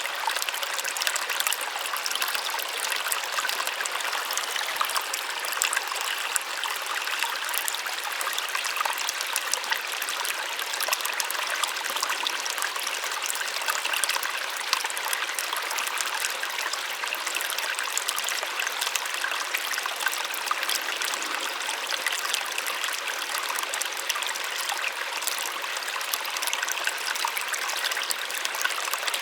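A small waterfall, falling water splashing in a steady, even rush that is soft and light, with almost no low rumble.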